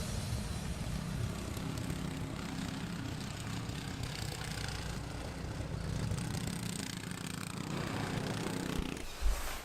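Small gasoline snowblower engine running steadily.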